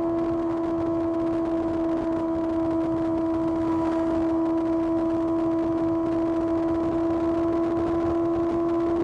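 Kawasaki ZX6R's inline-four engine running while riding, holding one steady pitch without a change in revs, with wind rush beneath it.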